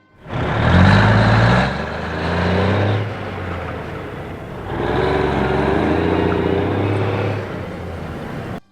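A heavy vehicle engine sound effect running and revving, swelling louder twice, then cutting off suddenly near the end.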